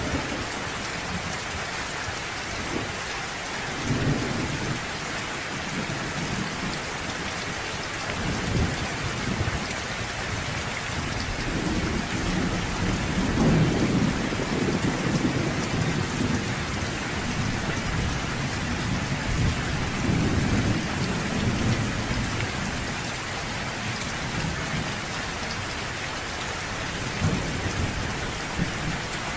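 Steady rain falling, with distant thunder rumbling low several times, the longest and strongest roll about halfway through.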